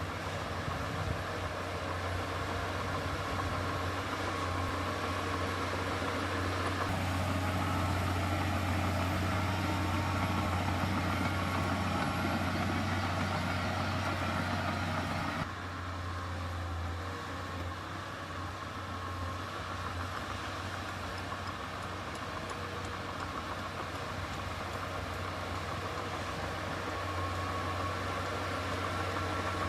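Heavy diesel engine of an earthmoving machine running steadily with a low drone. The sound changes abruptly about halfway through.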